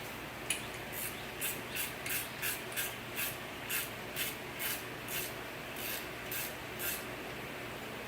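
Hand ratchet wrench being worked on bolts from the old window regulator: a run of about fourteen short ratcheting strokes, roughly two a second, stopping about seven seconds in.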